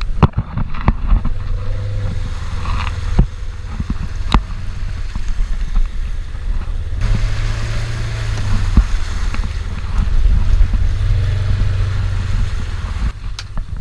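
Wind buffeting the camera microphone: a steady low rumble with scattered knocks, swelling louder twice in the second half.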